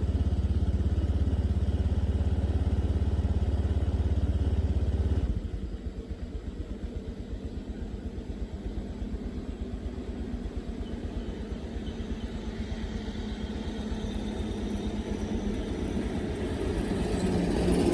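Bus engine running with its characteristic snoring exhaust note, a steady low pulsing rumble. It is loud for about five seconds, then drops abruptly and slowly builds again toward the end.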